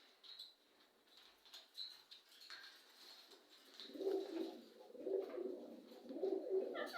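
Bird calls: a few faint high chirps, then from about four seconds in a louder low, rapidly pulsing warbling call that keeps going.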